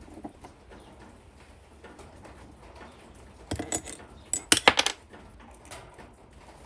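Small metal objects clinking and clattering: a quick cluster of sharp clinks about three and a half to five seconds in, over a faint steady background.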